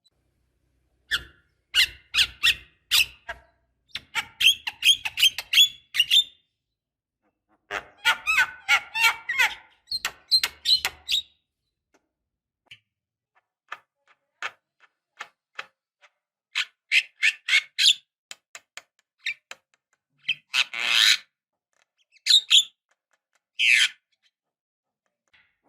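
Javan myna (jalak kebo) song: irregular bursts of sharp clicks, squeaks and short whistled notes separated by pauses, with a longer rasping squawk about 21 seconds in.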